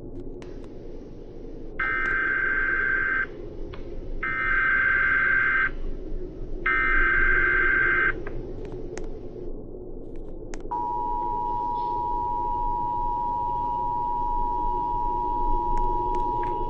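Emergency alert for a tornado warning: three loud data bursts of warbling tone, each about a second and a half long, make up the alert's header. About eleven seconds in, the steady two-tone attention signal begins.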